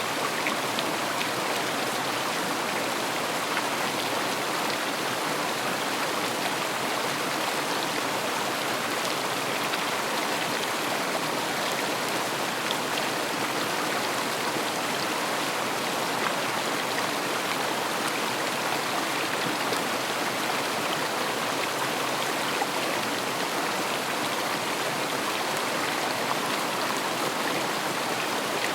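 River water flowing and splashing steadily over stones, an even rushing babble with small scattered splashes.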